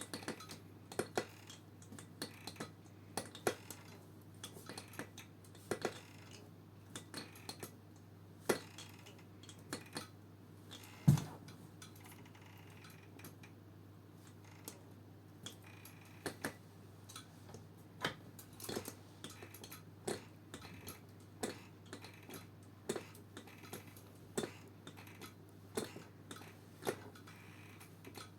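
Metta S-1.04 office chair creaking and clicking as it is rocked or shifted: short, irregular clicks about once a second, with one louder knock about eleven seconds in. This is the chair's squeak fault being demonstrated.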